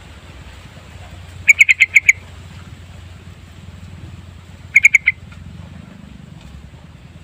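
Sooty-headed bulbul calling: two short bursts of rapid notes, one about a second and a half in and a shorter one about five seconds in, over a faint steady low hum.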